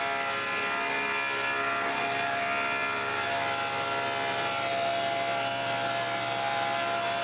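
Power saw running steadily as it cuts through half-inch plywood, a continuous motor whine under the noise of the blade in the wood.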